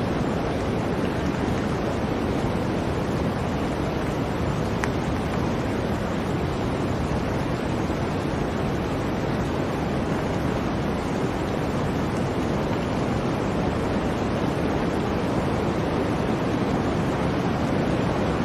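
Blizzard wind blowing in a steady, dense rush with no lulls.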